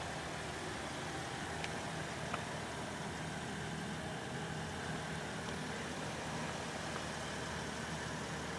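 A Chevrolet Traverse's 3.6-litre V6 idling steadily under a constant hiss, with a couple of faint clicks about two seconds in.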